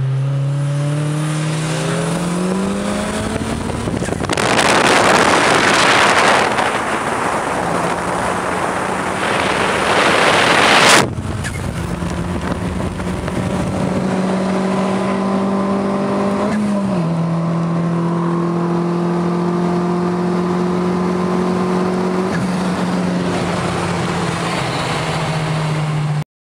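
Turbocharged four-cylinder car engine heard from inside the cabin while accelerating hard: the pitch climbs steeply at first, then comes a loud rushing stretch at speed that cuts off abruptly about eleven seconds in as the throttle closes. After that the engine settles into a steady drone, with a drop in pitch near seventeen seconds as a gear changes.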